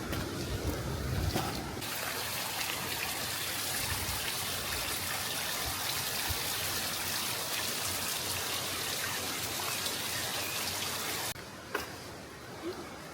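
Stream water running over rocks, an even rushing hiss that comes in suddenly about two seconds in and cuts off sharply near the end.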